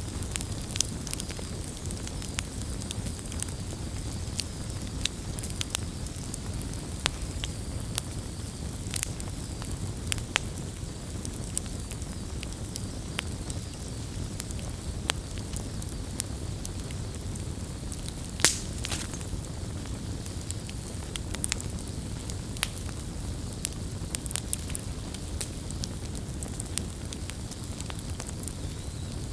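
Wood fire (bonfire) burning, with a steady low rumble under frequent small crackles and snaps of the burning wood, and one louder pop a little past the middle.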